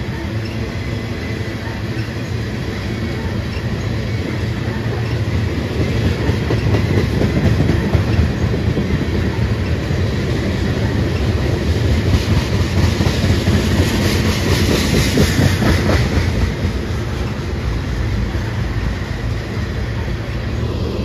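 Freight train of tank cars rolling past, steel wheels clattering steadily over the rail. The noise grows louder and brighter for a few seconds past the middle.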